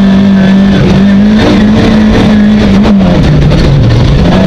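Rally car engine running hard at high revs, heard from inside the cabin over road noise; the engine note dips about three seconds in, as the driver lifts or shifts, and climbs again.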